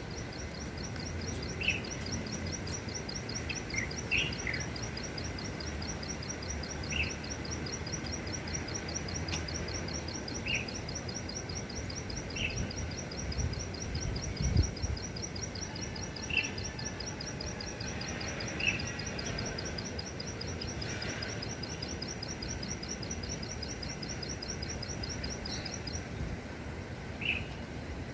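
Small wild songbird, the 'klik klik' bird, singing a long, high-pitched trill of rapidly repeated, even notes that stops near the end, with short lower chirps every couple of seconds.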